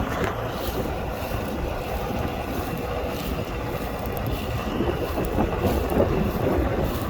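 U650 tractor's four-cylinder diesel engine running steadily under load while pulling a plough, with wind buffeting the microphone.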